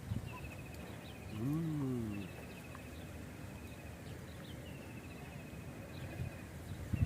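A small bird repeats a short trill of quick notes that falls slightly in pitch, over and over about every second and a half. About a second and a half in, there is one louder, low call from a larger animal, rising and then falling in pitch.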